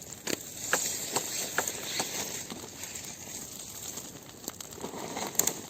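Irregular sharp snaps and cracks of dry twigs and branches, about two a second, with a quick cluster of them near the end.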